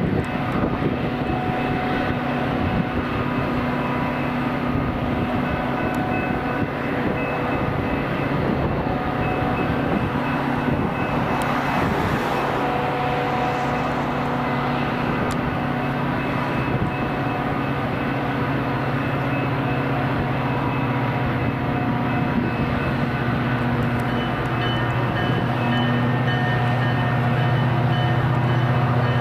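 A diesel-hauled train running past, with a steady locomotive engine drone over rail and wheel noise, growing a little louder near the end.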